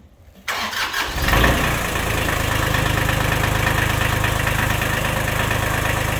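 Kubota L2350 tractor's diesel engine being started: a brief crank about half a second in, catching just after a second, then settling into a steady idle.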